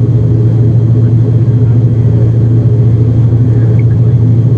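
Airliner engine noise heard inside the cabin during the climb after takeoff: a loud, steady, low hum and rumble.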